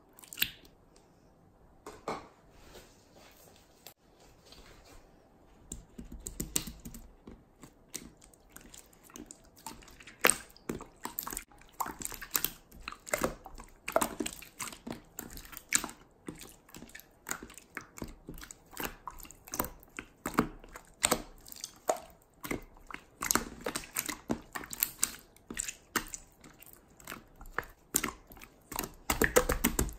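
Hands squishing and pressing slime, making an irregular run of sticky clicks, pops and crackles that grows busier after the first few seconds.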